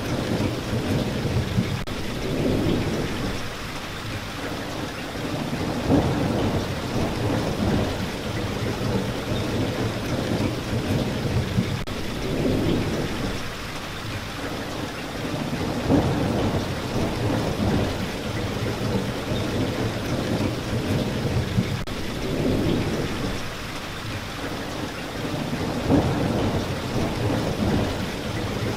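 Steady rain, with a low rumble swelling up and fading about every ten seconds.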